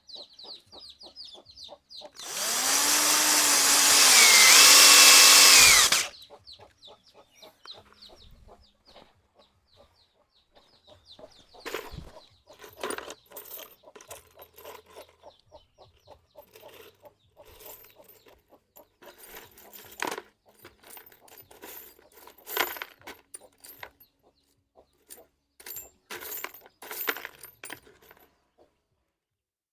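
A handheld power tool runs for about four seconds, its motor tone rising and then holding. It is followed by scattered clicks and knocks of tools and wood being handled.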